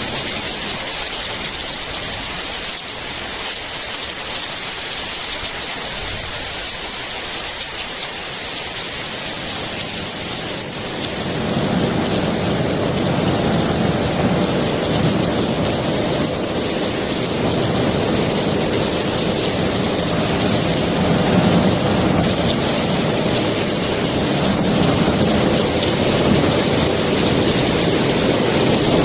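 Heavy rain falling in a steady hiss. About a third of the way in, a low rolling rumble of thunder joins it and keeps building.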